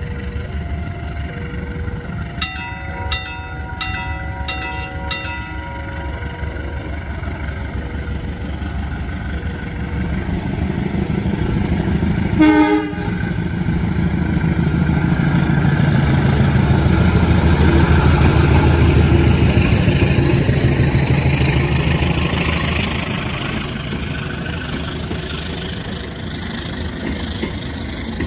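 A train passing: a short, loud horn blast about twelve seconds in, then the rumble of the train builds, peaks and fades over about ten seconds. Earlier, a repeating two-note signal and a quick string of short pitched toots sound over a low engine drone.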